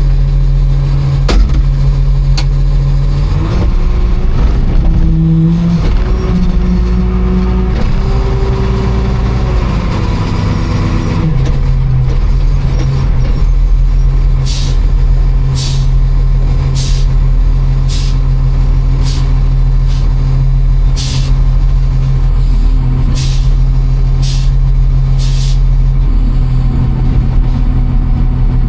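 A vehicle engine running steadily, its pitch shifting a little in the first ten seconds. In the second half it is joined by about ten short hisses, roughly one a second.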